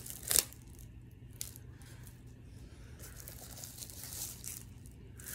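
Plastic wrap being torn and peeled off a Blu-ray steelbook case. A sharp crackle comes just after the start, and a longer stretch of crinkling about three seconds in.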